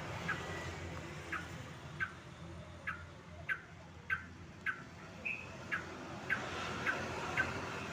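Trucuk (yellow-vented bulbul) giving short, sharp call notes over and over, roughly one to two a second, with one brief held note about five seconds in. It is a lure song of the kind played to a caged bird to get it singing.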